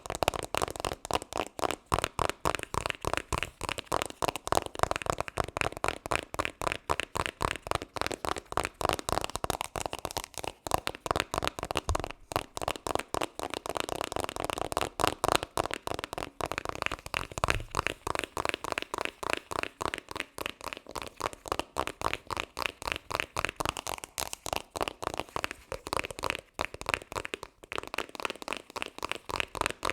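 Fast ASMR triggers: rapid, even taps or clicks, about five or six a second, running without pause.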